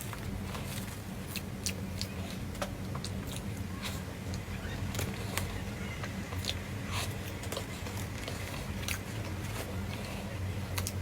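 Chewing and biting on food: irregular crunchy clicks, a few a second, over a steady low hum.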